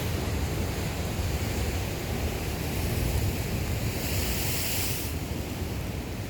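Ocean surf breaking and washing over coastal rocks, a steady rush with a swell of brighter hiss about four seconds in as a wave washes through. Wind buffets the microphone underneath.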